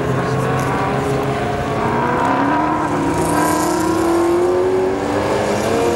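Alfa Romeo 4C's turbocharged four-cylinder engine accelerating hard, its pitch rising steadily, with a brief drop at a gear change about five seconds in before it climbs again.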